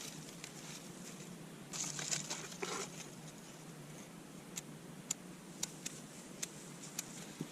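A fire of dryer lint, egg carton and dry grass tinder being lit: a short scratchy rustle about two seconds in, then sparse sharp crackles as the tinder and small kindling catch.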